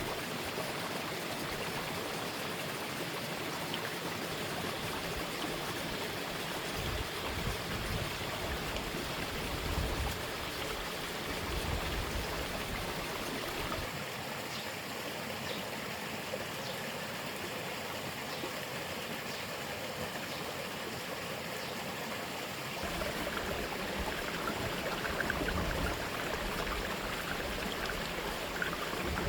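Steady rush of running water, with low rumbles coming and going.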